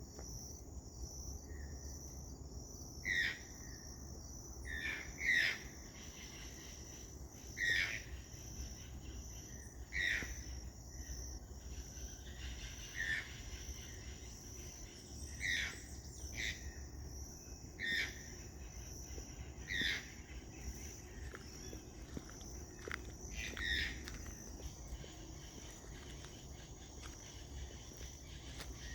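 A toucan giving short, loud calls about every two seconds, a dozen or so in all, over a steady high buzz of insects.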